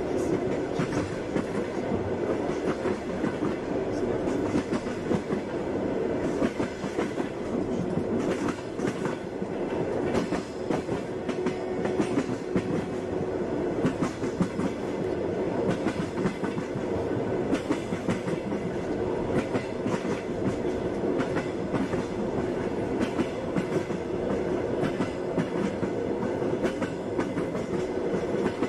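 Passenger train running steadily: a continuous rumble with the wheels clicking and knocking over the rail joints.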